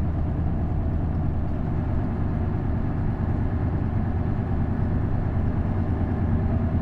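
Isuzu Erga bus's V8 diesel engine running steadily, a low, even drone.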